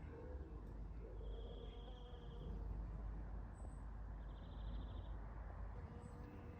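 Faint outdoor ambience: a low wind rumble on the microphone, with three short high trills of about a second each and a few brief higher chirps.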